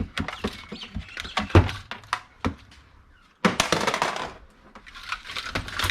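Tangled electrical cords and small plastic and metal items being handled and dropped: a string of clicks and clatters, with a louder rustling scrape about three and a half seconds in.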